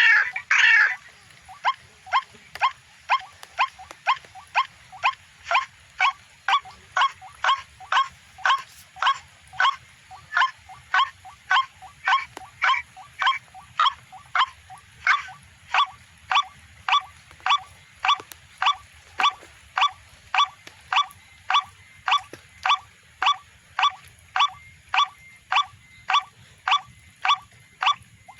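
White-breasted waterhen (ruak-ruak) call played as a bird-trapping lure through a Bluetooth speaker: short call notes repeated very evenly, about twice a second. A brief louder noise fills the first second.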